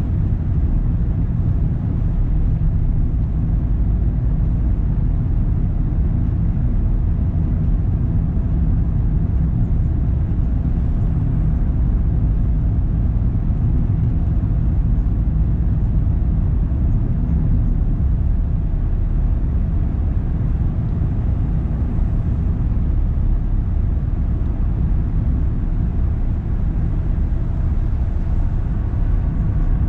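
A car driving: a steady low rumble of engine and tyre noise, with no change in pace.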